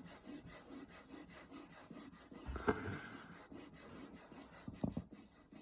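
Fingernails being filed with quick, even back-and-forth rasping strokes, about three or four a second. The strokes are broken by a louder knock about two and a half seconds in and a second knock near the end.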